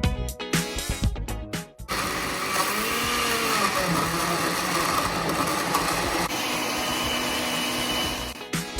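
Countertop blender running for about six seconds, liquefying chopped cucumber, celery, apple and lemon into green juice. It starts about two seconds in and its pitch wavers briefly just after starting. It cuts off near the end, and background music with a steady beat is heard before and after it.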